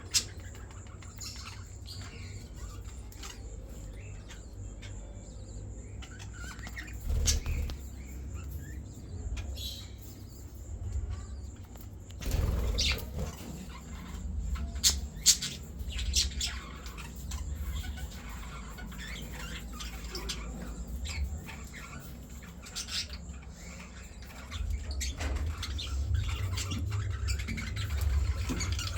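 Budgerigar giving short, scattered chirps and chatter calls, with a steady low hum underneath.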